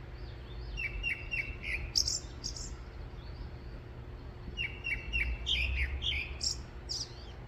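A songbird singing two phrases, each opening with three or four quick repeated notes and ending in a few higher, sweeping notes.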